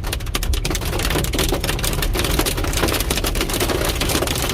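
A heavy downpour pelting hard surfaces during a thunderstorm with hail, heard as a dense, constant spatter of sharp ticks, over a low rumble of gusting wind.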